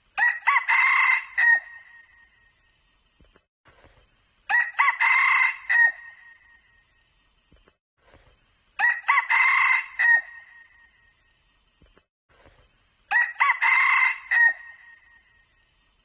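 Junglefowl rooster crowing four times, each crow about a second and a half long and clear, repeating at an even pace about every four seconds.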